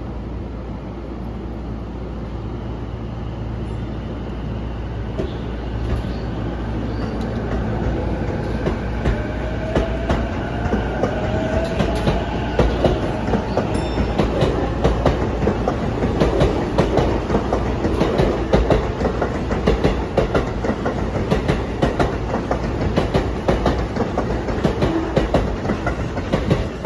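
Sotetsu 12000 series electric train pulling out and gathering speed past the platform. A whine rises in pitch as it accelerates. From about halfway in, a quickening clickety-clack of wheels over rail joints grows louder as the cars go by.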